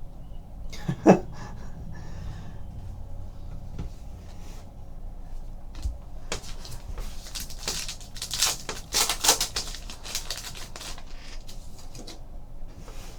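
Trading cards and pack wrappers being handled: a sharp click about a second in, then a few seconds of rustling and crinkling.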